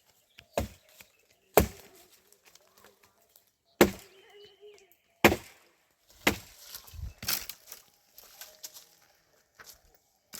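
A series of hard, sharp blows, about six loud ones at irregular intervals, with fainter knocks between them.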